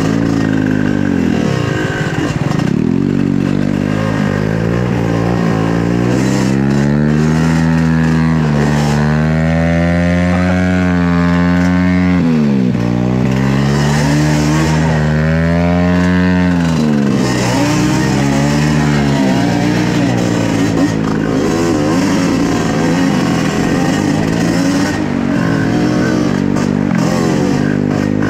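Trail motorcycle engine running under way, its pitch climbing and falling repeatedly as the throttle opens and closes, with sharp drops about twelve and seventeen seconds in, then a steadier drone.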